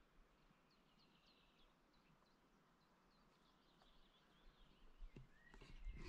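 Near silence outdoors with faint small-bird chirping: a quick run of short, high chirps in the first two seconds, then a few soft knocks near the end.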